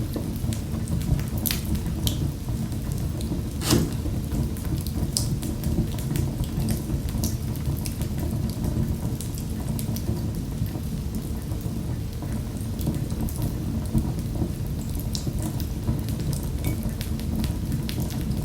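Wood fire in a fireplace crackling: a steady low rumble of flames with irregular sharp pops and snaps, one louder pop about four seconds in.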